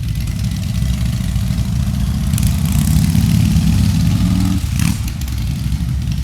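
Motorcycle engines running; one engine note comes up and holds for about two seconds, then drops away with a short sharp click about five seconds in.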